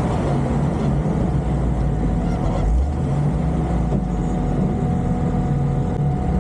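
Jeep Cherokee XJ engine running steadily at low revs while the vehicle crawls through an off-road obstacle course, a low even rumble with no sharp revving.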